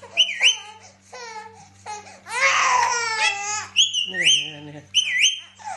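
A parrot calling: sharp whistled notes that swoop up and then down, and longer wavering, voice-like cries in between, the loudest around the middle.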